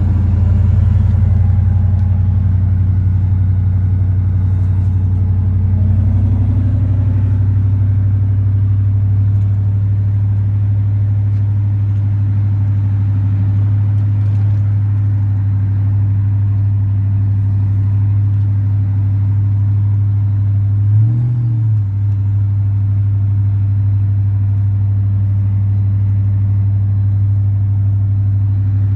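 Supercharged V8 of a 1999 Ford SVT Lightning pickup running at a steady speed with a deep, even drone, with one brief rise and fall in pitch about 21 seconds in.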